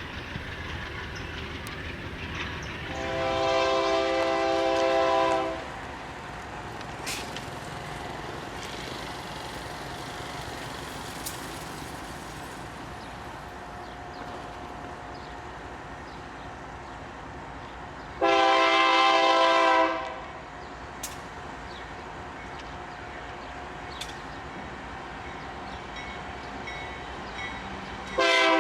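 Diesel freight locomotive's air horn sounding two long blasts, about two and a half and two seconds long, with the steady running noise of the train between them; a third blast begins at the very end.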